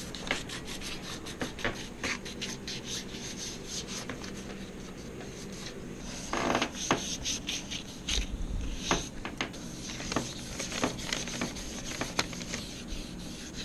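Wet sandpaper rubbed back and forth over the painted surface of a Suzuki GS650 fuel tank, scuffing up old paint softened by citrus paint stripper, in quick repeated strokes.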